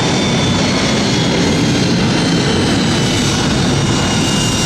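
Jet airliner engines: a loud, steady rush with a faint high whine that slides slowly down in pitch.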